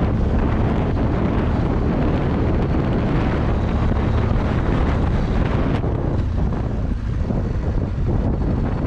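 BMW R1200GS Adventure's boxer-twin engine running steadily as the bike eases along, with wind buffeting the microphone.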